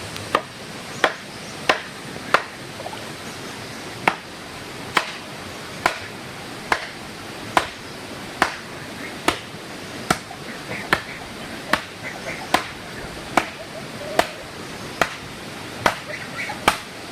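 Repeated blows of a hand tool at an even pace, a little faster than one a second, over a steady rushing background noise.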